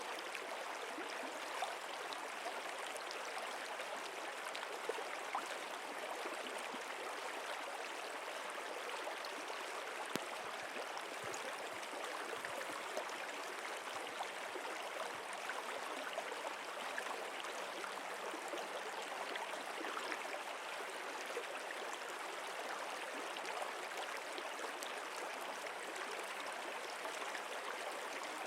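Steady rush of running water, like a flowing stream, with small splashes and ticks scattered through it.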